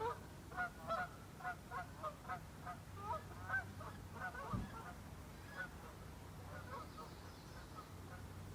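Several geese honking, faint: many short calls a few each second, thinning out after about five seconds. A soft low bump about halfway through.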